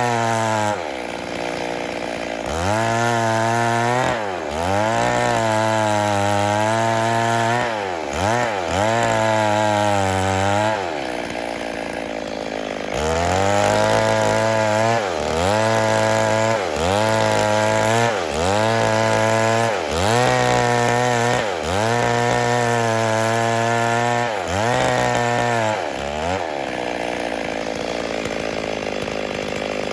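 Stihl MS 382 two-stroke chainsaw revving up and dropping back again and again, with two longer spells at a lower, steady speed: one about a third of the way in and one near the end.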